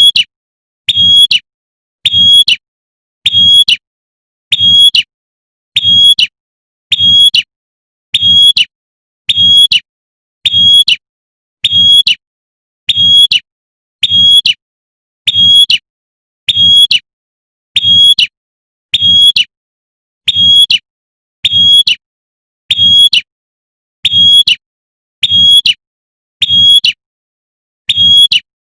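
Female prinia (prenjak) giving its 'tembakan' call: the same short, high call repeated evenly a little more than once a second, with silence between, as in a looped lure recording.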